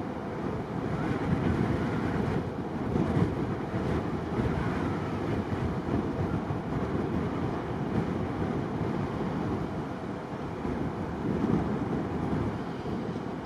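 Steady low rumbling noise of strong wind buffeting the microphone, mixed with the distant roar of jet airliner engines.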